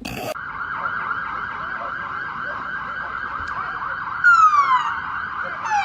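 Siren: a fast warbling yelp at first, then about four seconds in it changes to a slow falling wail that turns and rises again near the end.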